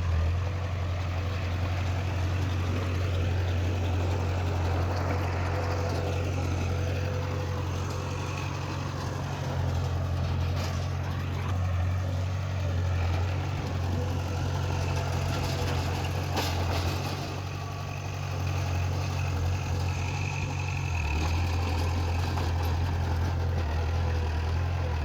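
Heavy diesel engine of earthmoving machinery running with a steady low drone, easing off briefly about 18 seconds in.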